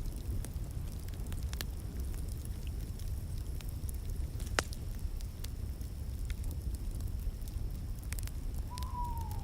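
Wood fire crackling in a fireplace: a steady low rumble with scattered sharp pops, the loudest about halfway through. Near the end comes a short whistle-like tone that falls slightly.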